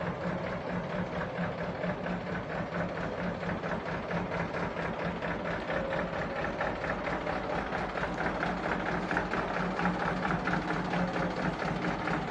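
Mitsubishi Canter HDV 125 PS truck's four-cylinder diesel engine idling steadily with a rapid, even pulse.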